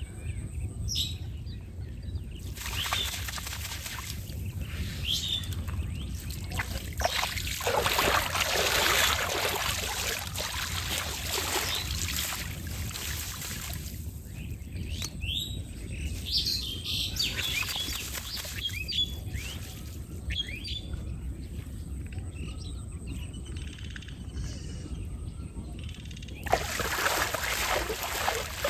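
Birds chirping and calling, with long stretches of a loud rushing hiss in the first half and again near the end.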